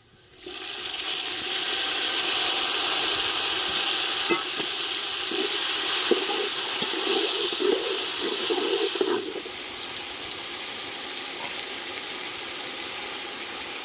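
Chopped tomatoes and green chilies dropped into hot oil and browned onions in a metal cooking pot, sizzling loudly as they hit the oil. A metal spoon stirs and scrapes against the pot with a few clinks, and the sizzle runs on quieter after about nine seconds.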